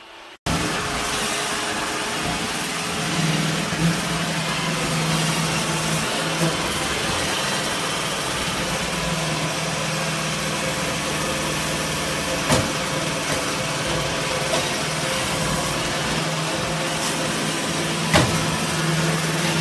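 Robot vacuum running: a steady motor whir with a low hum, cutting in abruptly just after the start, with a few sharp clicks along the way.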